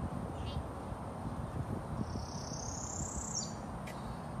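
Bird calling: a short high trill, then a long high whistle about two seconds in that rises and drops off sharply, over a steady low rumble.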